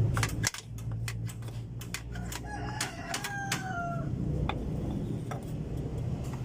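A rooster crowing once, about three seconds in: one drawn-out call that drops in pitch at the end. Before it comes a run of sharp clicks and knocks, over a steady low hum.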